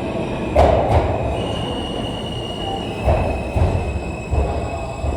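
R160 subway train running on the rails, its wheels squealing in steady high tones. Heavy clunks sound about six times at uneven spacing as the wheels cross rail joints.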